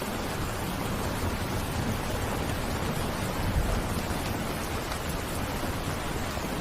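Steady rain falling, an even hiss of drops, with a brief low rumble swelling about halfway through.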